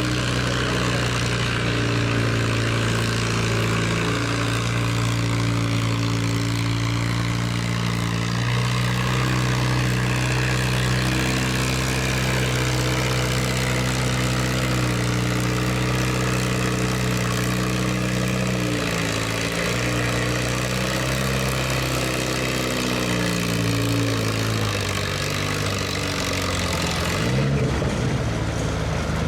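Farm tractor engine running hard under load, its pitch stepping up and down a few times, with a change in the sound a little before the end.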